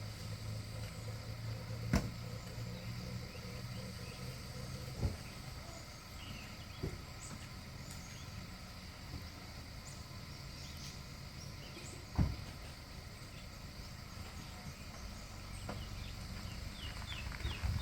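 Rural outdoor ambience: a steady low hum under a thin insect-like drone, with scattered short bird chirps and a few sharp knocks, about 2, 5 and 12 seconds in.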